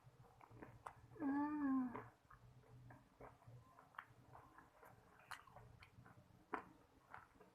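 A cat meows once, a drawn-out call just under a second long about a second in, over scattered crisp clicks of fried-chicken coating being bitten and chewed.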